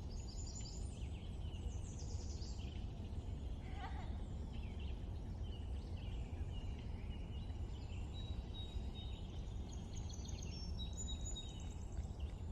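Several small birds chirping and trilling in overlapping short calls, over a steady low background rumble.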